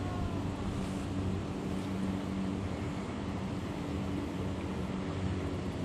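Boat motor running steadily with a constant hum, with wind and water noise.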